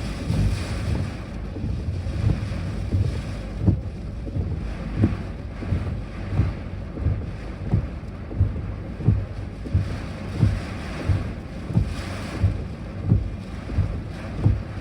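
Typhoon wind rushing and buffeting the microphone in swelling gusts, with regular low thumps about once or twice a second.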